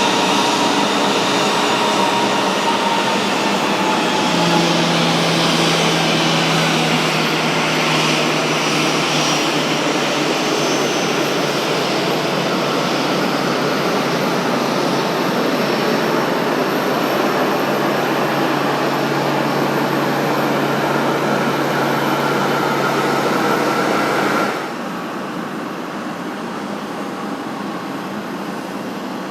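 Jet aircraft engines running loud and steady, with a faint whine that falls early on and rises later. About 25 seconds in the sound drops suddenly to a quieter steady rumble.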